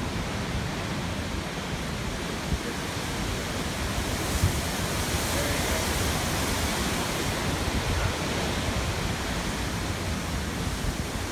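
Hurricane-force wind blowing steadily, swelling into a stronger gust about four seconds in that holds for a few seconds before easing.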